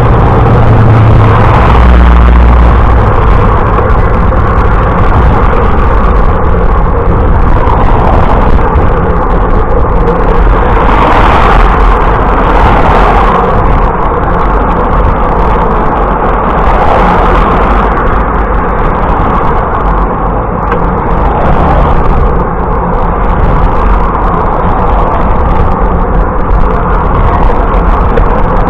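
Loud, steady wind rushing over the microphone of a camera riding along on a moving bicycle, mixed with road noise.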